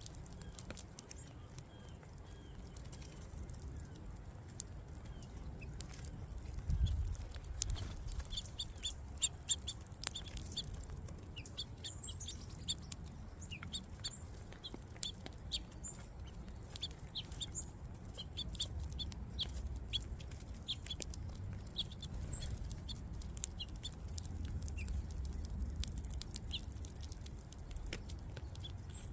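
Small birds at a feeder chirping, many short high calls that come thick and fast from about eight seconds in, over a low rumble.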